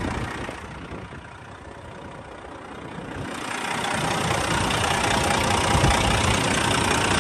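Caterpillar C11 diesel engine idling steadily, heard with the hood open; it grows louder about four seconds in. The engine is running clean, with no blow-by or puffing.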